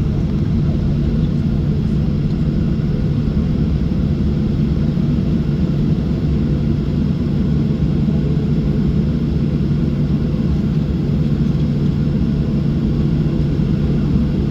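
Steady low hum and rumble of a Boeing 737-700's CFM56-7B engines at low ground power, heard from inside the cabin before takeoff, with no spool-up.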